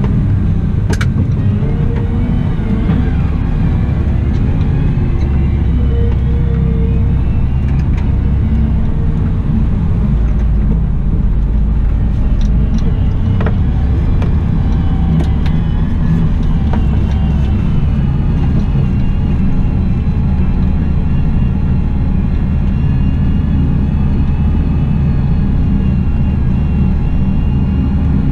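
Cat 972M XE wheel loader's diesel engine running steadily under work, with a whine that rises and falls in pitch and a few short clicks and knocks.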